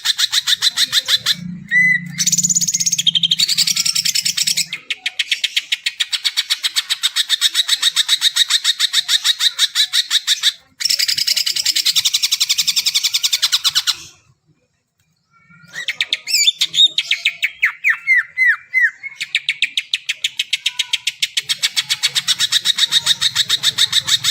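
Cucak ijo (green leafbird) singing a fast, unbroken chatter of rapidly repeated high notes. There is one short silent break just past the middle, followed by a string of quick downward-sweeping notes.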